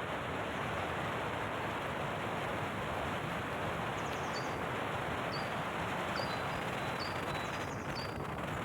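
Steady rushing outdoor noise, with a short high bird chirp repeating about once a second from about halfway through.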